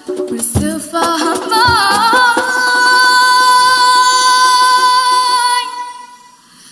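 A cappella nasyid singing: a voice winds through a few ornamented notes, then holds one long note that fades away near the end, with a single deep drum hit near the start.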